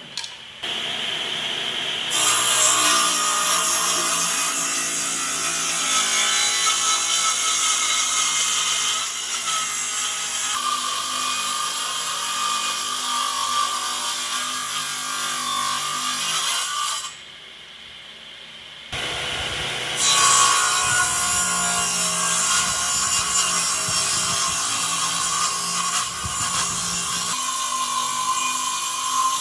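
A power tool cutting or sanding wood, running steadily with a wavering whine. It stops for about two seconds in the middle, then starts again.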